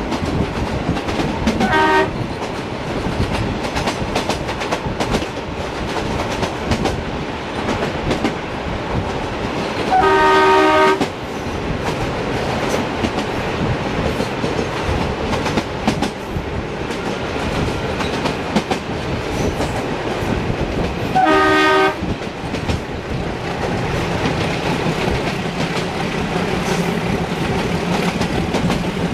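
Two diesel-hauled passenger trains running side by side, wheels clattering over the rail joints with a steady rumble. A diesel locomotive's multi-tone horn sounds three times: a short toot about two seconds in, a blast of about a second near the middle, and a shorter one about two-thirds of the way through. A low steady engine hum comes in near the end.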